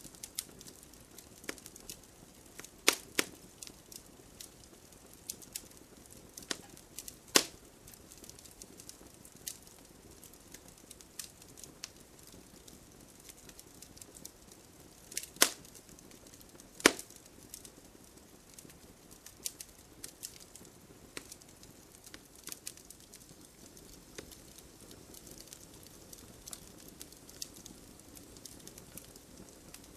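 Wood fire crackling: a soft steady hiss of burning with scattered sharp pops and snaps, a few louder pops standing out about three seconds in, around seven seconds, and twice in the middle.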